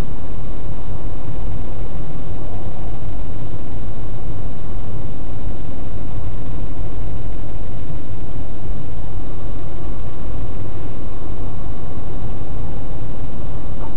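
Car travelling on an expressway: a steady, loud low rumble of road and engine noise that does not change.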